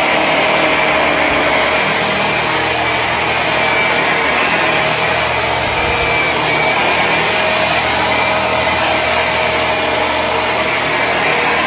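Hoover WindTunnel upright vacuum cleaner running steadily just after being switched on, a steady whine over a rush of air.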